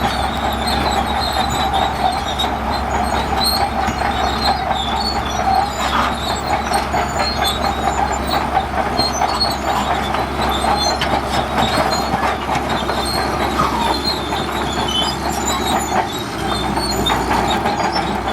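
Bulldozer working, its engine running steadily under a continuous metallic clatter from the steel crawler tracks.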